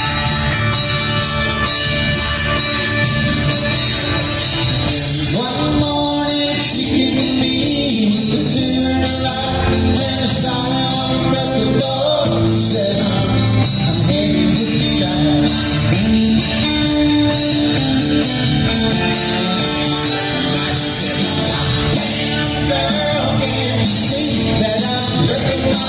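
Live soft-rock band playing a song.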